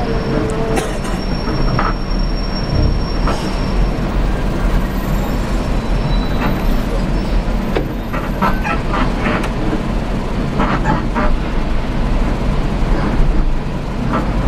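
Steady low rumble of a moving vehicle heard from inside, with scattered clicks and knocks.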